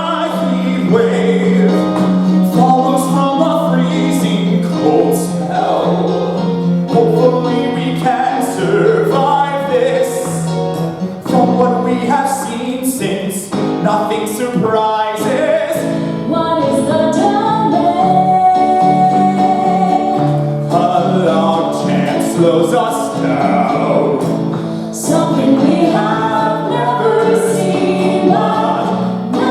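Live singing from a stage musical, voices carrying a melody over a low held accompaniment note, with light regular ticks in the high range.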